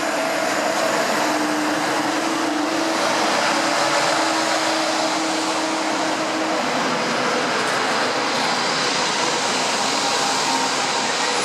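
A train running by on the rails, a steady rushing noise with a low hum that stops about halfway through.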